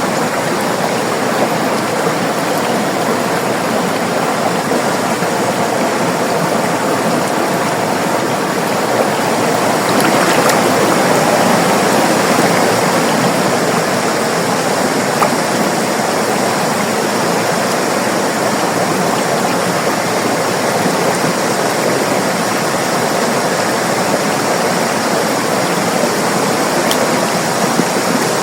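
A river's flowing water rushing and babbling steadily, with a slight swell about a third of the way through.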